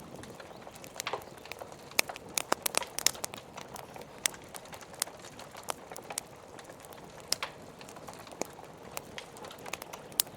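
Wood fire crackling, with irregular sharp pops that bunch together a second in and again between two and three seconds, over a steady hiss of rain.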